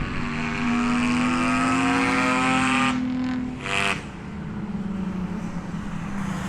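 Race car engine pulling in gear with its pitch slowly rising, then a gear change about three seconds in with a short hiss, after which it pulls on at lower revs.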